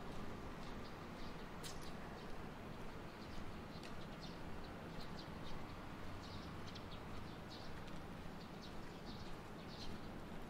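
Small birds chirping in many short, high calls, over a steady low hum of the city.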